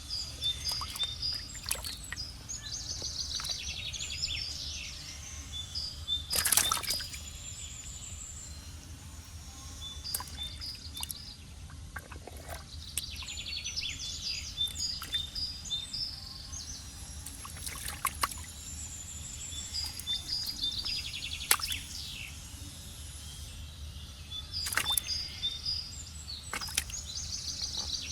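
A bird singing the same rapid chirping phrase three times, about every twelve seconds, over a steady low rumble, with a few short splashes of water.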